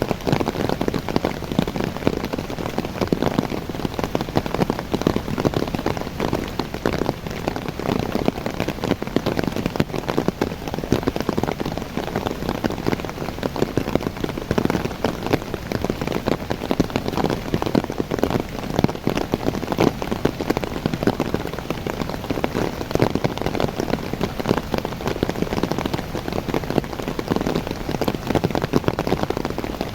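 Steady rain falling on the leaves of young coffee trees: a dense, even spatter of countless drops.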